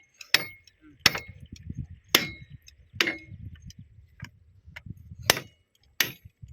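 Hammer blows on steel during railway point-machine fitting work: about six sharp ringing strikes, spaced unevenly about a second apart, over a low rumble.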